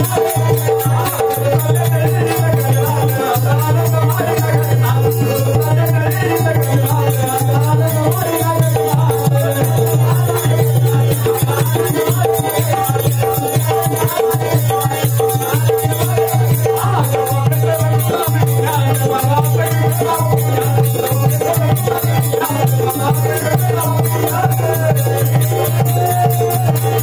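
Instrumental folk music: a steady drone and a wavering melody over fast, even rattling percussion.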